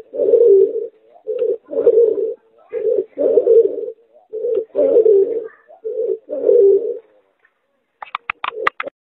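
Pigeon–spotted dove hybrid cooing: a short note followed by a longer one, repeated about every second and a half, five times. Near the end, after a pause, a quick run of about seven sharp taps.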